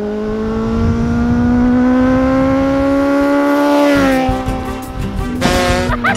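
Kawasaki Z800 inline-four motorcycle engine running at steady high revs as the bike approaches, its pitch creeping slowly upward, then dropping sharply about four seconds in as it passes by.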